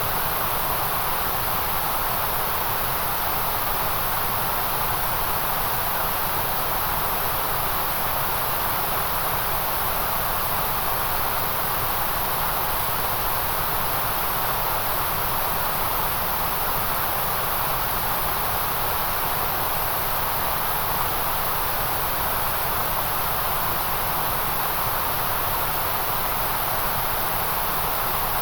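Steady white noise: an even, unchanging hiss with a bright, sizzling top end.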